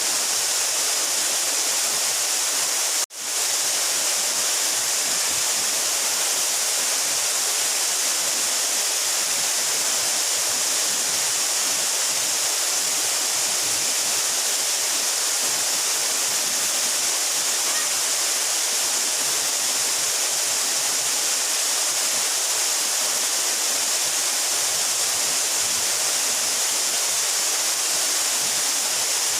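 Steady rushing of a 12-metre mountain waterfall, an even, hissy wash of falling water. It cuts out for an instant about three seconds in, then resumes unchanged.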